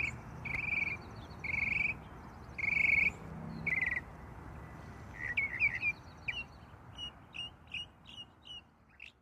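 Birds calling: five strong, evenly spaced calls about a second apart, then a run of shorter chirps, two or three a second, that grow fainter toward the end, over a steady background rush.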